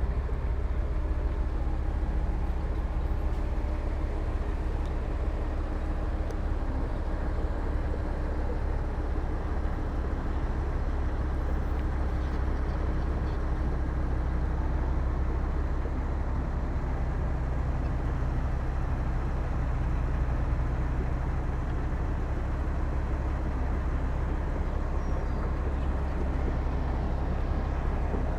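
Diesel engine of heavy earth-moving machinery running steadily, a deep low drone that holds an even level throughout.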